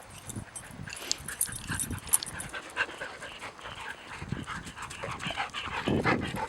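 Dogs panting, with many short clicks and scrapes throughout, getting louder near the end.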